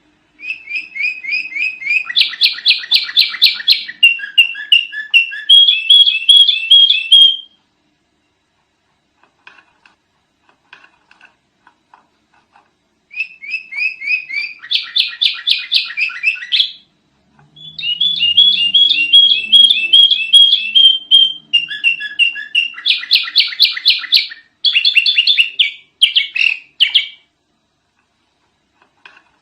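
Sooty-headed bulbul (kutilang) singing loudly in long, busy runs of rapid repeated chirping notes. It sings two bouts of several seconds each, with a silent pause of about five seconds between them.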